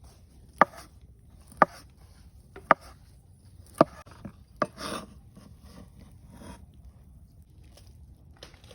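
A knife striking a wooden cutting board, five sharp chops about a second apart, followed by softer handling noises.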